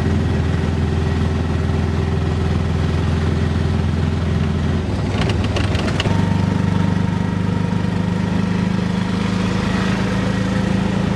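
Auto rickshaw's engine running steadily during a ride. A few clicks come about five seconds in, and then the engine note shifts and holds.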